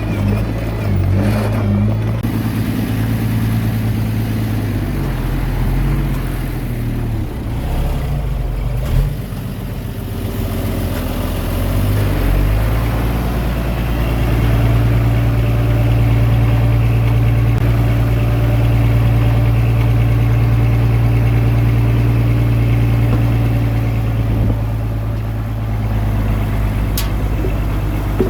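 Diesel engine of heavy earthmoving machinery running throughout, its speed shifting over the first dozen seconds, then holding steady and a little louder for about ten seconds before easing off. A single sharp click comes near the end.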